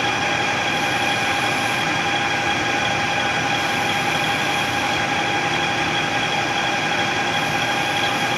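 Lathe running steadily with a constant high whine over even machine noise while a shift knob blank on a mandrel is being roughed out.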